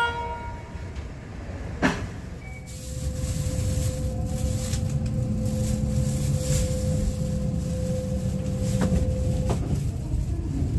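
Kintetsu limited express train pulling out of the station, heard from inside the passenger car: a single knock about two seconds in, then a low running rumble builds with a steady hum over it.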